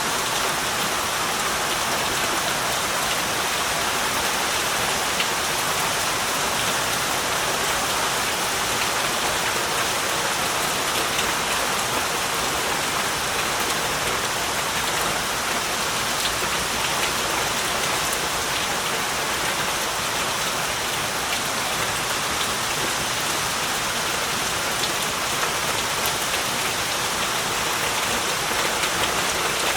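Heavy rain falling steadily, a dense even hiss of drops on surfaces with tiny drop ticks throughout.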